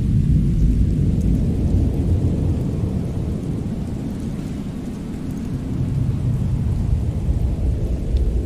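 Fireplace fire burning with a low, steady rumble that eases a little midway and builds again, with a few faint scattered crackles.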